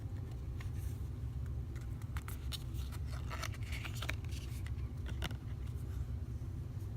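Paper oracle cards being handled: light rustles, slides and taps from about half a second in to about five seconds in, over a steady low background hum.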